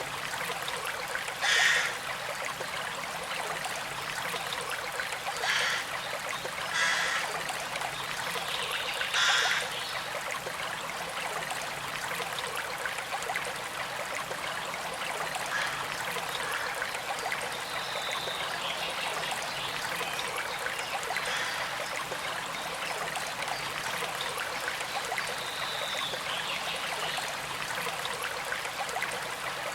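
Small stream flowing and trickling steadily, with four brief louder splashes of water in the first ten seconds.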